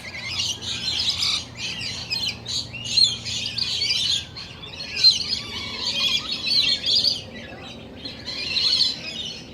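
A chorus of many small birds chirping and twittering, with dense, overlapping short calls that rise and fall in loudness.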